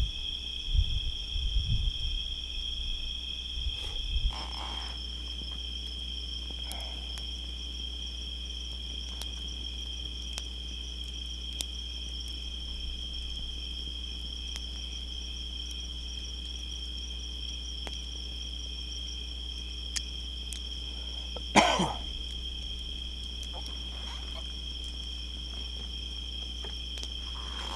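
A night chorus of crickets and other insects trilling steadily at several high pitches. Low bumps come in the first few seconds, and one sharp knock, the loudest sound, comes about three quarters of the way through.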